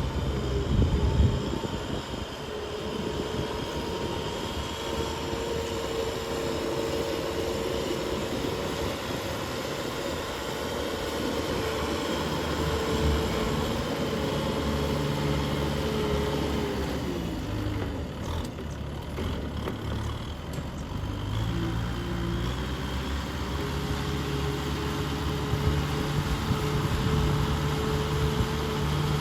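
Tractor engine running steadily under load while working a muddy field; about two-thirds of the way through its pitch sags for a few seconds and then climbs back up.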